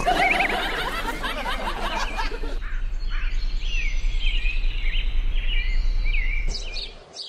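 Birds chirping and calling, a run of warbling whistles followed by repeated short chirps, over a steady background of outdoor noise.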